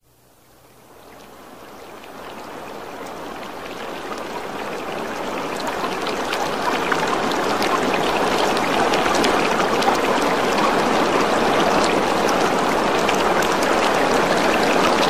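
Rain falling steadily, fading in from silence over the first several seconds, with a dense patter of sharp drop ticks.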